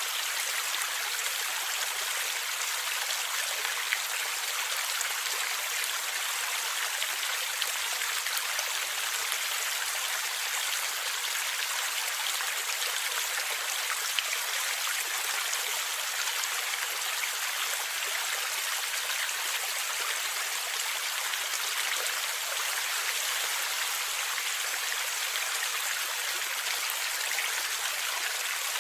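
Steady rush and gurgle of a flowing stream, with small scattered splashes and no pauses.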